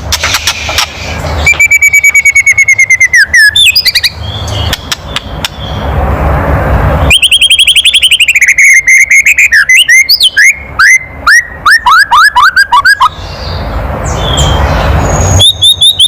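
White-rumped shama (murai batu) giving its harsh, rapid rattling 'kretekan' call, the agitated call used to provoke other shamas, in three fast trains of notes, the longest in the middle ending in a run of falling notes. A loud rushing noise fills the gaps between the bouts.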